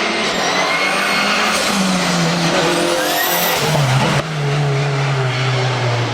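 Race car engine accelerating hard through the gears on a hill climb, the revs climbing and dropping at each shift. About four seconds in the sound changes abruptly to an engine held at steady high revs.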